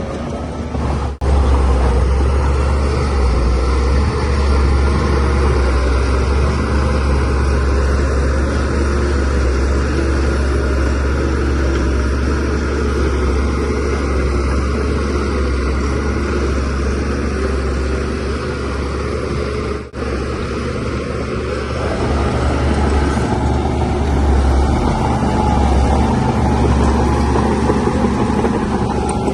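DH17C3PRO bulldozer's diesel engine running steadily with a strong low rumble, with a sharp momentary dip about a second in and again near 20 seconds.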